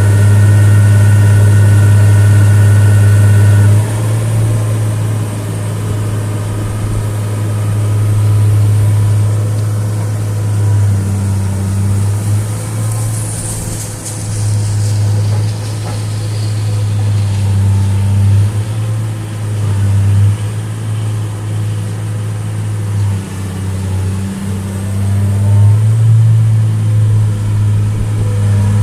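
Diesel engine of a 2003 Atlas 1805 wheeled excavator running. It is steady and loudest for the first few seconds, then its note dips and rises again and again as the load changes.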